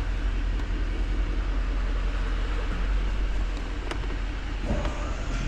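Pickup truck engine idling steadily with a low hum, and a faint higher whine coming in near the end.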